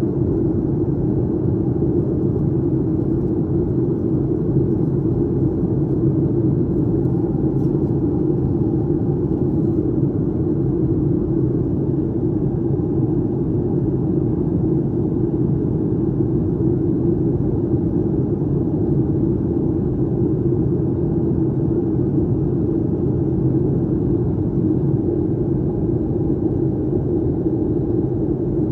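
Steady low drone inside the cabin of a Boeing 737-900ER in flight: noise from the CFM56-7B engines and airflow past the fuselage, with the energy heavy in the low end.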